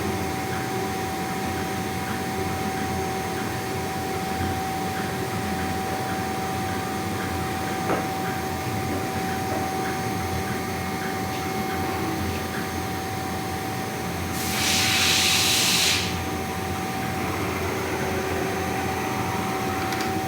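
CNC engraving machine running with its spindle at 24,000 rpm: a steady high whine over a machine hum. About three-quarters of the way in, a loud hiss lasts about a second and a half.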